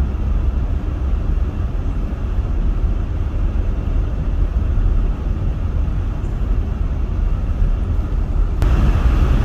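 Steady road and engine rumble heard inside a car's cabin while driving on a snow-covered highway. About eight and a half seconds in, the noise jumps abruptly to a louder, brighter hiss.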